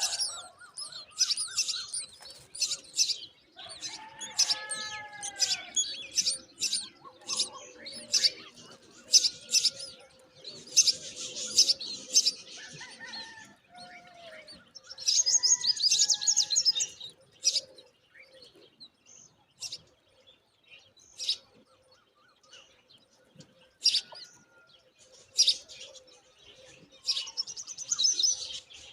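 Myna birds calling: many short, high chirps, with some lower whistled notes. Three times, about ten seconds in, about fifteen seconds in and near the end, a dense burst of rapid, harsh chirping comes in.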